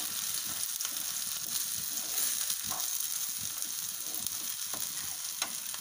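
Small onions, garlic cloves and freshly added grated coconut sizzling steadily in hot oil in a nonstick pan. A wooden spatula stirs them, with scattered light scrapes and taps.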